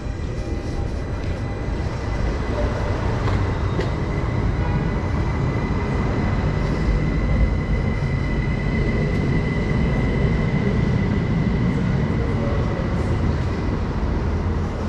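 Train running, a steady rumble that grows louder about two seconds in, with a thin high whine held through most of it.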